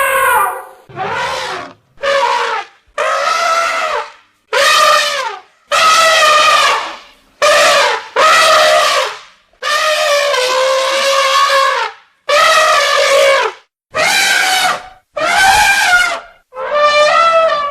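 Elephants trumpeting: about a dozen loud, brassy calls in quick succession, each lasting about a second, several sliding down in pitch at the end.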